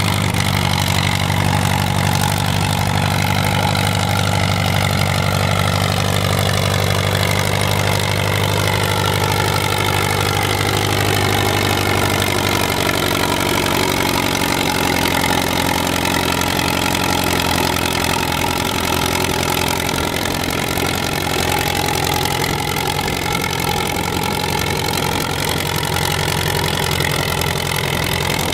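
Pulling tractor's engine running hard and continuously, its pitch slowly dipping and then rising again, with a strong low hum that fades about halfway through.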